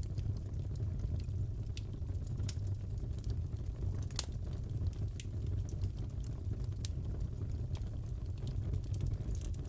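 Wood fire crackling in a fireplace: a steady low rumble of the flames with scattered sharp pops and snaps, the loudest about four seconds in.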